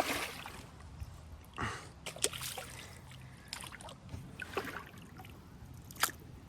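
Kayak paddle dipping and stroking through shallow river water, with sloshing and dripping against the hull. A sharp knock comes about six seconds in.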